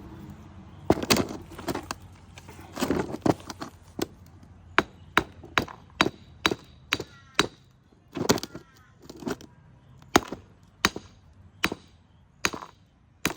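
A hand tool striking a hard, encrusted part again and again, knocking and cracking it apart: about twenty sharp knocks at an uneven pace, some in quick pairs or clusters.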